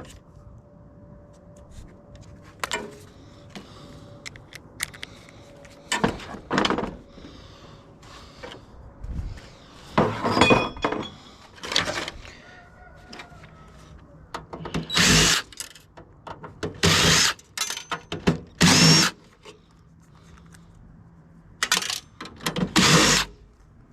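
Power drill run in repeated short bursts to back out screws while dismantling a water heater for scrap, with pauses of a second or more between runs.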